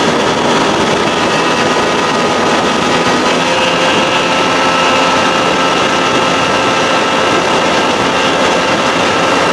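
1992 Johnson 60 hp two-stroke outboard running under way at speed: a loud, steady drone with a steady whine over rushing noise. About three and a half seconds in, the whine tones shift slightly higher and then hold steady.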